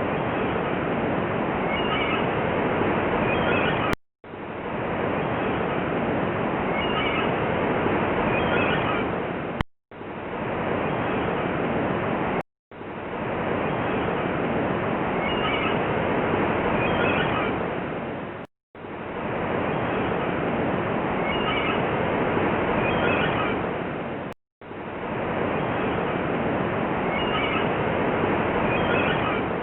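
Steady rushing water with short high bird calls over it, the same few-second recording looping. Each pass is cut by a brief moment of silence, about every three to six seconds.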